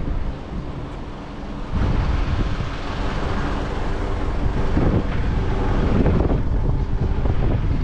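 Wind buffeting the microphone, a heavy low rumble that grows louder about two seconds in, with faint steady traffic or engine noise beneath.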